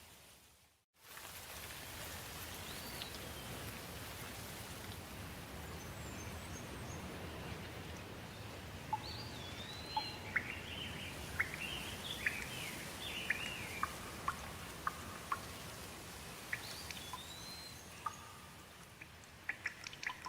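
Steady rain falling, with birds calling over it: a few arching whistled calls and a run of quick, sharp chirps in the middle. The sound cuts out briefly about a second in, and a few sharp ticks come near the end.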